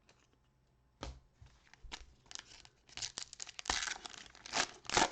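Wrapper of a trading card pack being torn open and crinkled by hand: irregular crackling and tearing that starts about a second in and grows louder toward the end.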